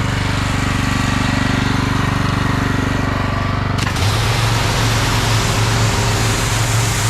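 North Star hot-water pressure washer's engine and pump running steadily. About four seconds in there is a click, and the sound shifts to a stronger low drone with more hiss.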